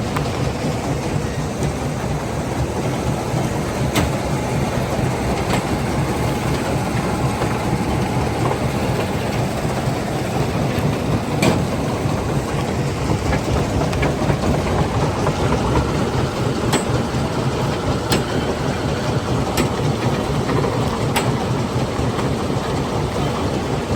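Stone crushing plant machinery running steadily under load, a dense rumbling clatter with a few sharp knocks now and then, typical of rock being broken and moved through the plant.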